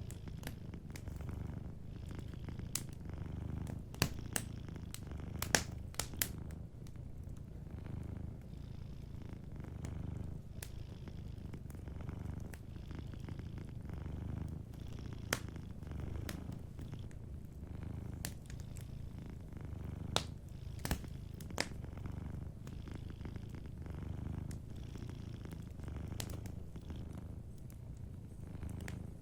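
Domestic cat purring steadily in a low, pulsing hum, with a wood fire crackling over it in sharp, scattered pops that bunch together a few seconds in and again around two-thirds of the way through.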